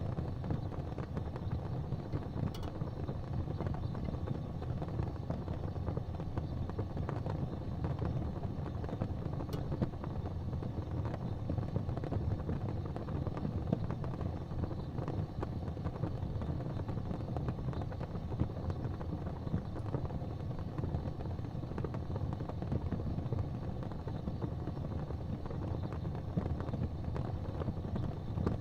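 Wood fire burning in a fireplace: a steady low rumble with a few faint crackles and pops scattered through it.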